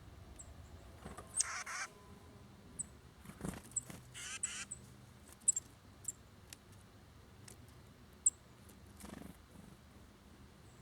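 Small songbirds at a backyard seed feeder calling: thin, high, short call notes scattered through, with two harsh, buzzy calls about a second and a half and four seconds in. A soft knock comes about three and a half seconds in.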